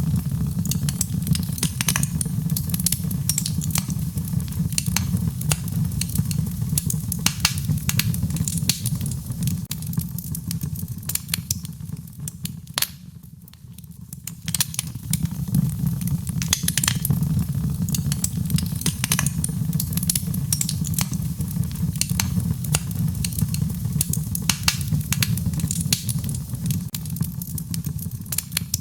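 Wood fire crackling with frequent sharp pops over a steady low rain-like rush, dipping briefly about halfway.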